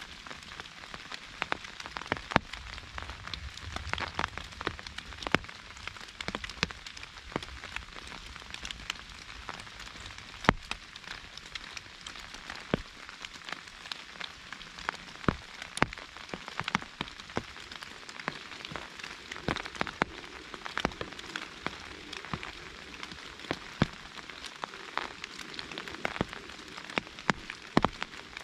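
Rain falling on an umbrella: a steady patter with many sharp, irregular taps of single drops hitting the fabric.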